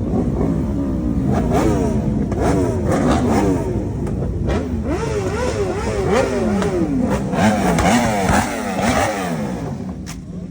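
Several motorcycles accelerating together, their engines overlapping, each one's pitch climbing and then dropping at every gear change. The sound eases off near the end.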